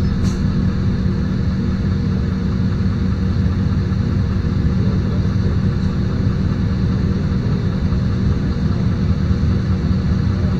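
Interior rumble of a LiAZ-5292.22 city bus's diesel engine running steadily, heard from inside the passenger cabin, with a constant low drone.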